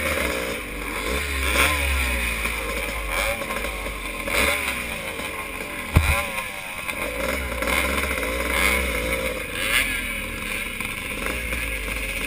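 Vintage motocross motorcycle engines revving up and down through the gears, several pitches rising and falling together, with a sharp knock about six seconds in.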